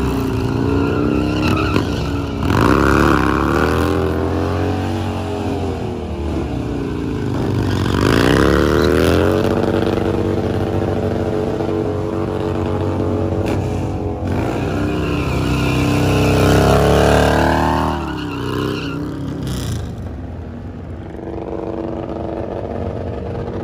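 Motorcycle engine revved hard three times, each rev rising and falling in pitch, then dropping back to a lower, steadier note near the end.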